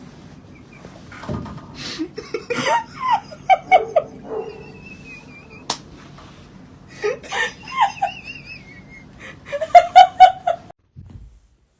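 People laughing in three bouts of quick repeated "ha" pulses, the last bout the loudest, which cuts off suddenly. Between the bouts come a couple of brief high wavering whistle-like tones.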